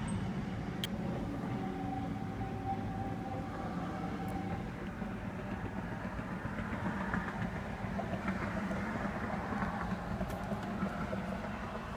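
Steady low background rumble and hum with no clear single source, and one faint click about a second in.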